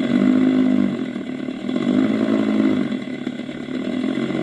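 Ola S1 Pro electric scooter's artificial vintage mood sound: a fake petrol-engine note played through the scooter's speaker as it is throttled. It swells twice.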